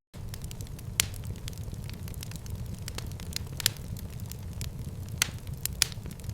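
Fire in a fireplace crackling over a steady low rumble, with many small crackles and a few louder sharp pops: one about a second in, one past the middle and two near the end.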